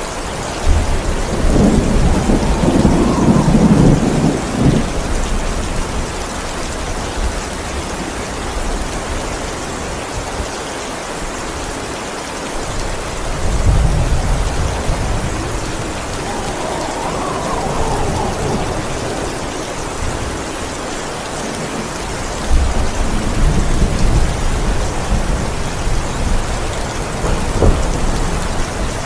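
Steady heavy rain with rolling thunder: three long low rumbles, the first starting about a second in, a second in the middle, and a third with sharper cracks near the end.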